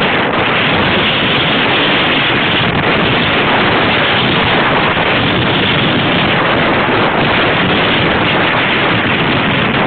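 Loud, steady wind noise rushing over a camera microphone, from the air stream of riding a bicycle.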